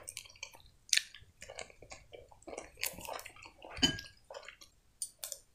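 Close-miked chewing of soft white bread and solyanka soup: soft wet mouth clicks and smacks. Near four seconds in there is one brief, louder clink as the spoon goes into the glass bowl.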